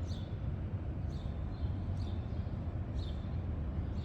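Small songbirds chirping in the dawn chorus: faint, short falling chirps, about two a second, over a steady low rumble.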